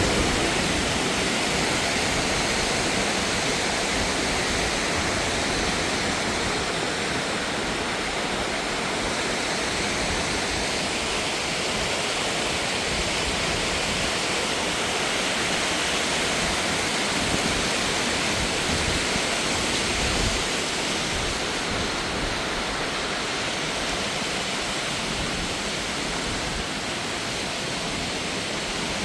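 Rushing water from a mountain stream or waterfall: a steady, even rush that never lets up.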